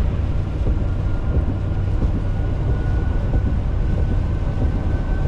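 Steady low rumble of a car driving, tyres and engine heard from inside the cabin. A faint thin whine joins about a second in and edges slightly higher.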